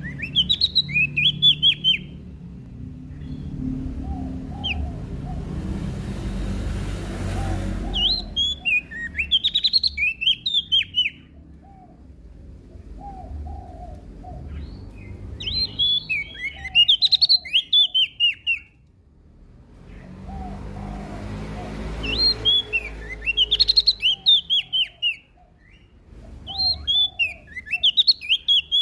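Prenjak daun songbird singing in repeated phrases of rapid, high chirping notes, about five phrases of two to three seconds each, with softer, lower chirps in the gaps between them.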